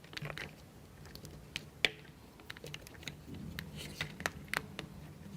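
Light clicks and taps of small plywood model-kit parts being handled and fitted together, with one sharper click about two seconds in and a quick run of clicks near the end.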